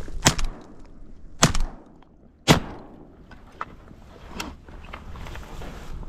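Three shotgun shots about a second apart, the third the loudest, fired from a layout blind at a drake mallard.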